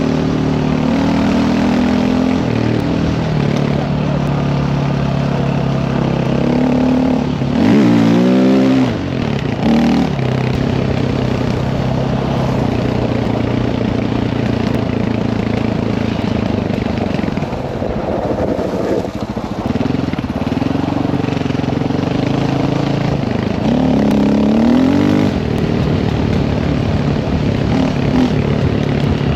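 Dirt bike engine running hard on a trail ride, its pitch rising and falling as the throttle opens and closes, with sharp revving swoops about eight seconds in and again near the end.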